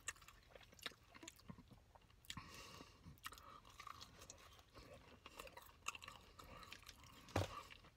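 Faint close-up chewing of a hot pastrami sandwich, with scattered small wet clicks and crunches from the mouth. A louder knock comes near the end.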